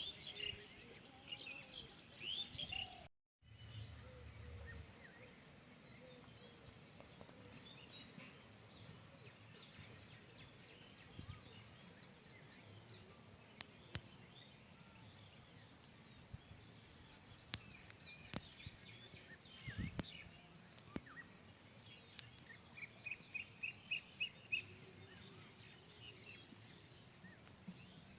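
Wild birds chirping faintly in scattered short calls, with a quick run of about eight repeated notes near the end.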